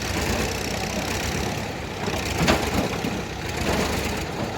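Tractor diesel engine running steadily at idle, with a sharp knock about two and a half seconds in.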